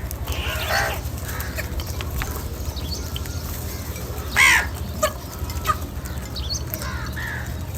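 A flock of crows cawing, many calls following one another and overlapping, the loudest a little past halfway, over a steady low hum.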